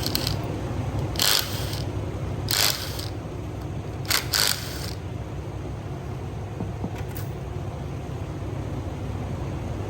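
Three short bursts from a power tool working fasteners during an engine teardown, the last broken into several quick pulses, over a steady low hum.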